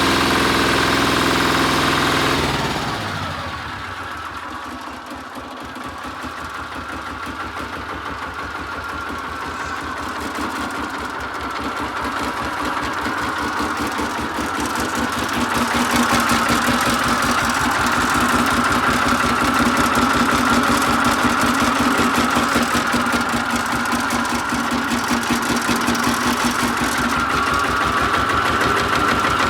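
Goldoni 233 mini tractor's engine running, dropping to a quieter, slower idle about two and a half seconds in. It then settles into a steady rapid chug that slowly grows louder.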